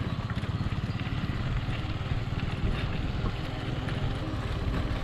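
A small engine running steadily, with a rapid, even low pulsing.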